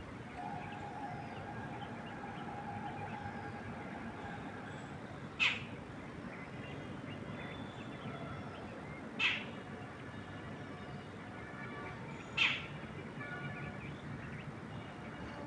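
Outdoor ambience of birds chirping over a steady background hiss. A long steady note holds through the first four seconds, and three loud, short, sharp calls come a few seconds apart.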